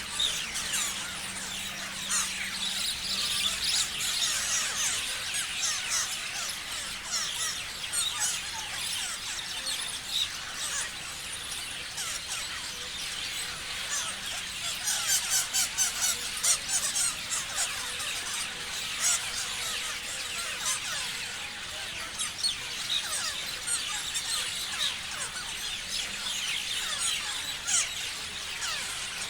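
A flock of parrots chirping and screeching in dense, overlapping chatter, with a spell of louder calls about halfway through.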